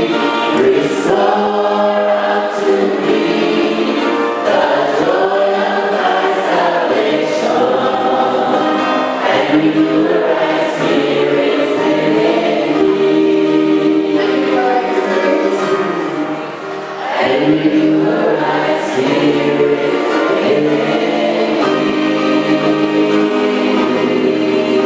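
A church choir singing a gospel hymn, with a brief pause about two-thirds of the way through.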